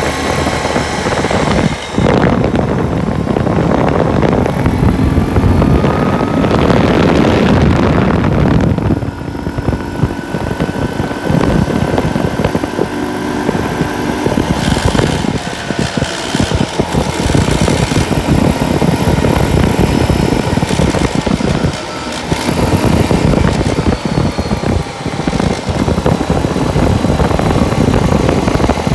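A vehicle driving at speed, with engine rumble and road and wind noise. The level dips briefly a few times.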